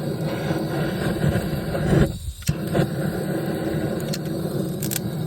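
Handheld gas blowtorch running steadily against charcoal to light it, with a short break in the flame about two seconds in.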